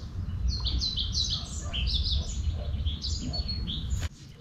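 A songbird singing a rapid run of short, downward-sliding chirps, about five a second, over a steady low rumble. The sound cuts off abruptly near the end.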